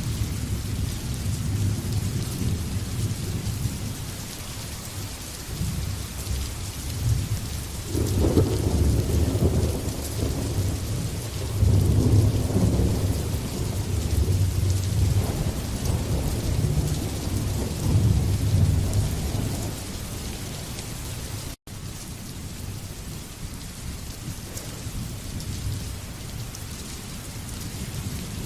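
Steady heavy rain with rolling thunder: a low rumble builds about a third of the way in, peaks, and fades away over roughly ten seconds while the rain hiss carries on. The sound cuts out for an instant about three-quarters of the way through.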